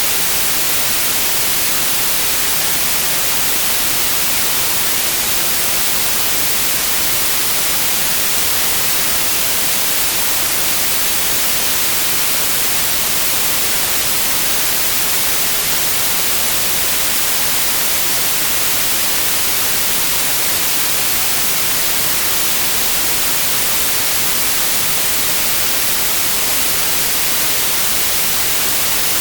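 Steady white noise: an even, unchanging hiss across the whole range of pitch, with no events in it.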